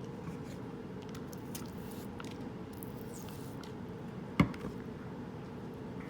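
Straight razor being worked during honing: faint light scrapes and ticks of steel on the hone over a steady background hum, then one sharp click about four and a half seconds in.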